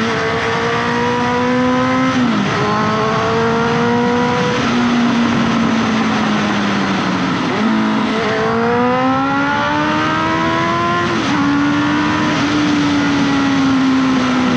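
Honda CBR650F's 649 cc inline-four engine through an aftermarket SC-Project exhaust, heard on-board while riding: the engine note climbs under throttle in long sweeps, dipping sharply about two, four and a half, seven and a half and eleven seconds in, then holding and slowly easing near the end.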